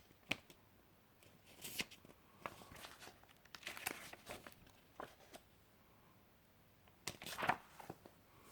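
Paper pages of an instruction booklet being handled and turned: a sharp click just after the start, then several irregular bursts of paper rustling, the loudest about seven seconds in.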